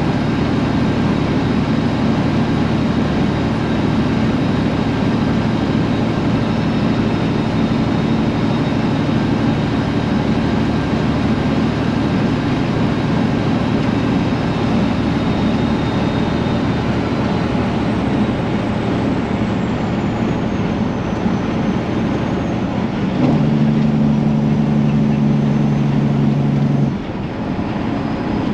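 Straight-piped Detroit Diesel engine of a semi truck running steadily under way. About 23 seconds in, a stronger, deeper steady note stands out for a few seconds, then the sound drops a little in level.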